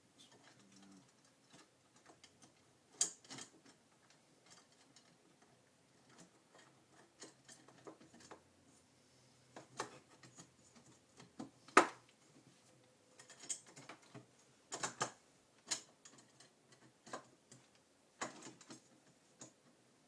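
Irregular clicks and knocks of aluminium extrusion frame parts being handled, slid and fitted together during assembly, with the loudest sharp knock about twelve seconds in.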